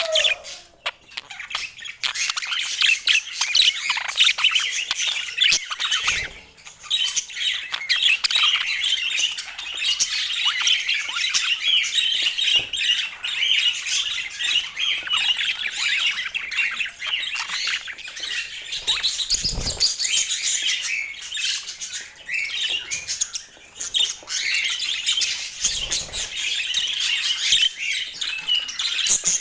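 Budgerigars chattering: a dense, fast, high warble with short chirps, broken by a few brief lulls.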